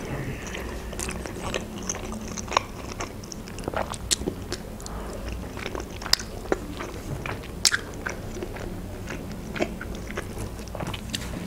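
Close-miked chewing and mouth sounds of a person eating khinkali, boiled Georgian dumplings, with many scattered sharp clicks and smacks.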